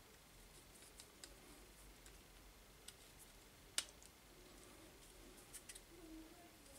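Near silence with a few faint, scattered clicks and taps, one sharper click about four seconds in.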